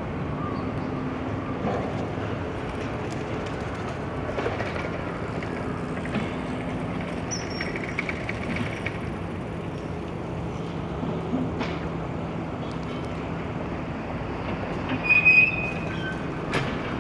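Steady low rumble of distant vehicles, with a few faint short high chirps and a brief louder sound a couple of seconds before the end.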